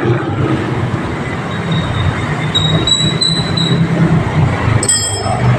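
A small engine running steadily with a fine low rhythm. A thin high whistle comes and goes in the middle, and a brief high ringing sounds near the end.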